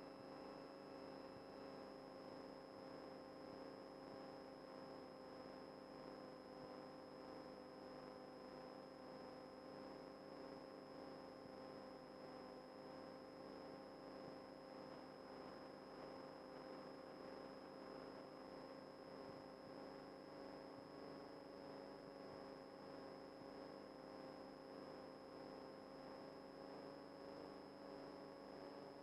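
Near silence: a faint, steady hum made of several even tones, unchanging throughout.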